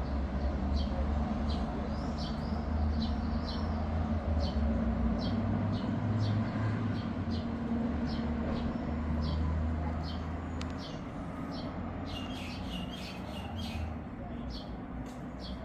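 A small bird chirping in short, high, repeated calls about twice a second, over a steady low hum; near the end the chirps come faster and overlap.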